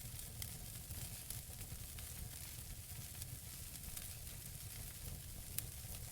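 Wood fire burning in a fireplace: a steady low rumble of flames under frequent small crackles from the burning logs, with one sharper pop about five and a half seconds in.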